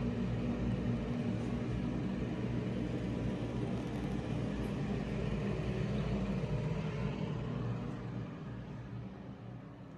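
A steady low mechanical rumble that fades out over the last couple of seconds.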